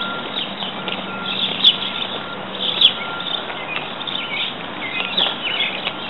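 Small birds chirping in short, quick falling notes scattered every second or so, over a steady background hiss and a low hum.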